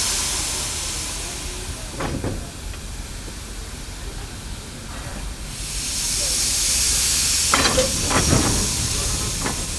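Steam locomotive letting off steam with a loud hiss that dies away about a second in and starts up again midway. A few short metallic knocks come about two seconds in and again near the end.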